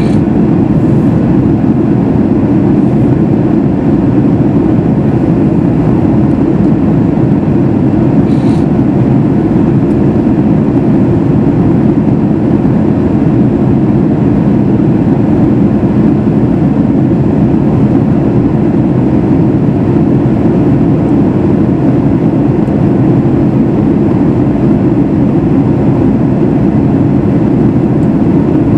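Steady in-flight cabin noise of a Boeing 737 MAX 8: a constant low rumble from its CFM LEAP-1B engines and the airflow, heard from a passenger seat inside the cabin.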